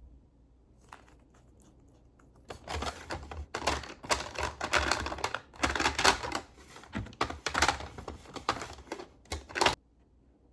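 Quick, irregular clattering and rustling of small objects being handled, starting about two and a half seconds in and stopping suddenly near the end.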